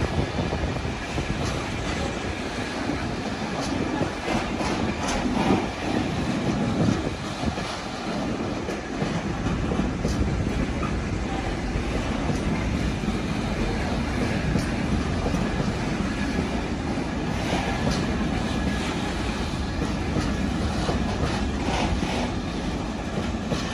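Container freight train's wagons rolling past at a steady pace: a continuous rumble of wheels on rail with repeated clicks and knocks as the wheels run over the track.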